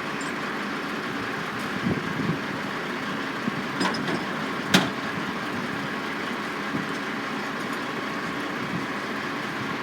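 Construction site din: a steady hum of machinery, with a few knocks and one sharp bang about halfway through.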